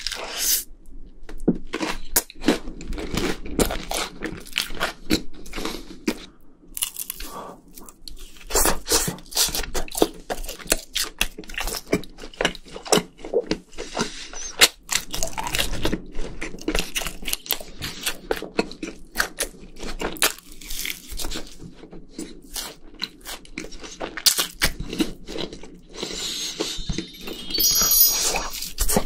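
Close-miked crunching and chewing of crispy fried food, including breaded cheese sticks, with irregular crisp bites and mouth sounds throughout.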